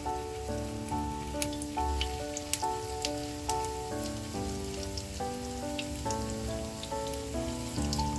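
Hot oil crackling in a frying pan, with irregular sharp pops, under background music of slow held notes that change about every half second.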